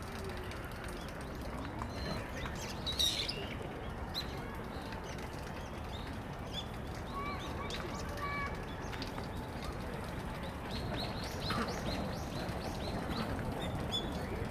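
Small wild birds chirping and calling, many short high chirps, with one louder call about three seconds in and a thicker run of chirps near the end, over a steady low background hum.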